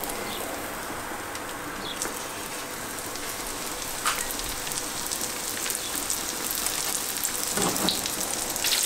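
Crumbed rabbit fillets sizzling as they are laid one by one into hot oil and butter in a frying pan for shallow frying. The sizzle grows a little louder as more pieces go in.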